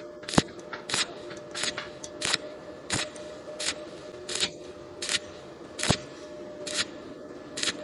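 Welding arc on thin steel box tubing, struck in short pulses: about eleven brief crackling bursts, evenly spaced a little over one a second, over a steady low hum. This is stitch welding to fill a gap while keeping the heat down so the thin wall does not burn through.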